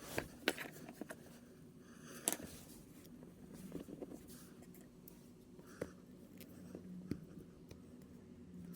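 Small plastic figure-kit parts being handled and snapped together: scattered light clicks and scrapes, with a sharper click near the start and another about two seconds in.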